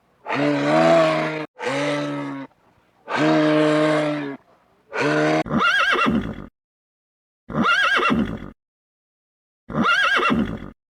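A cow mooing in several low, steady calls during the first half, then a horse neighing three times, each whinny about a second long with a quavering pitch, separated by silent gaps.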